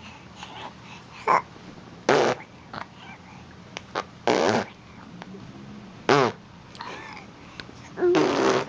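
A baby blowing wet raspberries, lips sputtering with spit. About five loud bursts come irregularly a second or two apart, some with a voiced, wavering pitch, the last one the longest.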